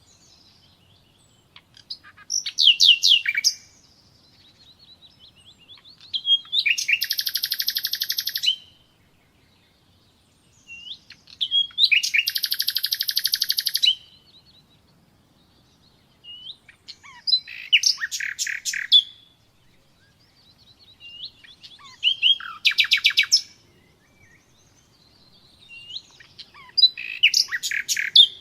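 Common nightingale singing in separate phrases of rapid repeated notes and trills, each a second or two long, with pauses of a few seconds between them; six phrases in all.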